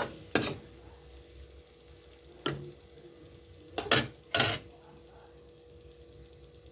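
A metal utensil knocking against a cooking pan about five times, in short irregular clanks, over a faint steady hum.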